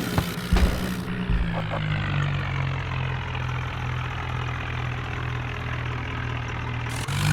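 Diesel tractor engine running under load. Its revs ease down about a second in, then hold steady, with a few short knocks near the start.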